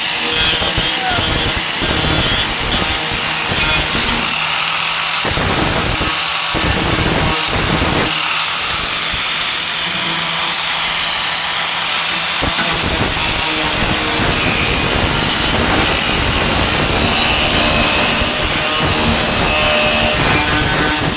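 A 4.5-inch angle grinder running continuously under load against the rusted sheet metal of a pickup's wheel arch, cutting and grinding out the weak metal.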